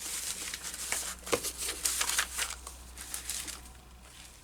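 Loose papers rustling and crinkling as they are sorted through by hand in a box of collage scraps, with a few sharper paper snaps. The rustling dies away near the end.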